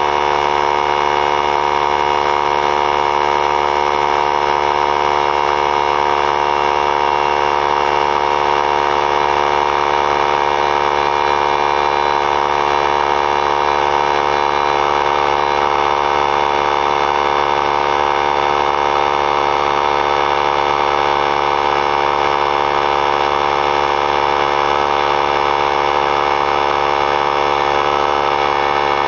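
3-gallon pancake oilless air compressor running steadily at a constant pitch, its motor and pump filling the tank toward 100 psi.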